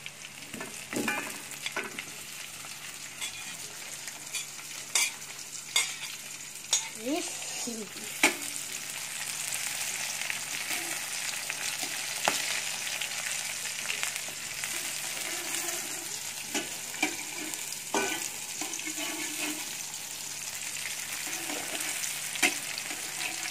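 Sliced onions and garlic frying in hot oil in a wok: a steady sizzle that grows louder about eight seconds in, with sharp clicks and scrapes of a slotted metal spatula stirring against the pan.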